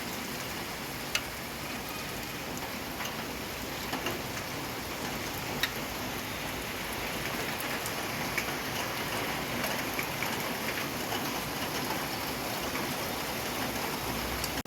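Steady rain falling, a constant hiss with scattered sharp drips and taps of individual drops.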